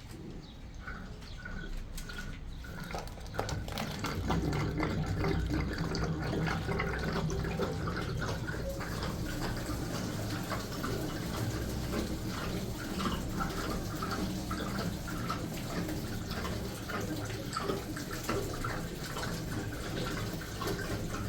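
Water running and splashing, coming in about three seconds in and then running steadily.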